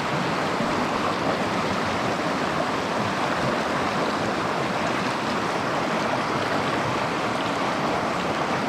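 Mountain stream water rushing and babbling steadily over rocks.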